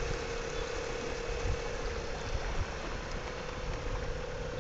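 Boat engine running steadily, a constant hum over a low, uneven rumble.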